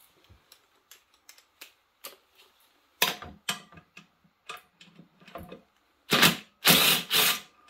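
Hand tools clicking and tapping against metal parts while a seized Honda engine is taken apart: a run of light clicks, with louder clattering about three seconds in and again near the end.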